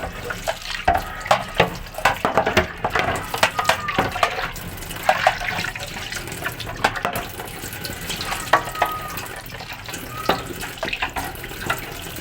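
Tap water running and splashing as plastic fridge shelves and trays are scrubbed and rinsed in a sink, with frequent knocks and clatter of the plastic parts against the sink.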